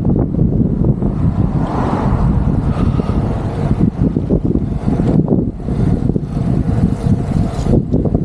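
Wind rumbling over the microphone of a camera riding along on a moving bicycle, mixed with road noise.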